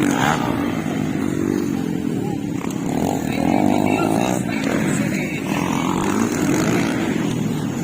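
Motocross dirt bike engines running hard, their pitch rising and falling as the riders open and close the throttle.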